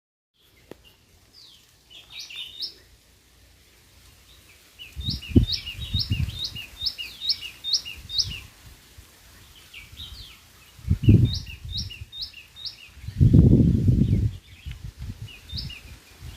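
White-throated fantail singing: phrases of quick, rising notes, repeated several times. Several loud low rumbles come in between the phrases.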